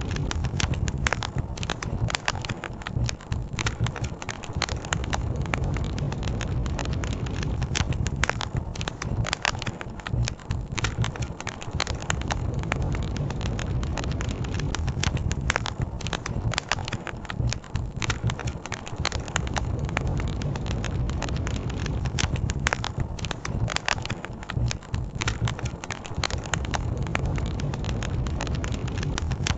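Campfire crackling and popping with frequent sharp snaps, over a steady low rushing bed of river water.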